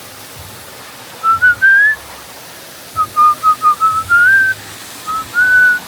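A person whistling a short tune in a few phrases of short notes, some sliding upward, over the steady rushing hiss of a waterfall.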